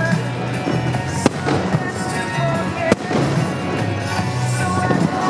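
Fireworks bursting with music playing: two sharp bangs, one about a second in and one about three seconds in, over a steady musical soundtrack.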